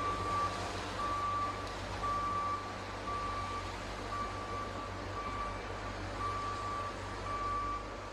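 A reversing alarm beeping steadily, one single-tone beep about every second, over the low rumble of a running engine.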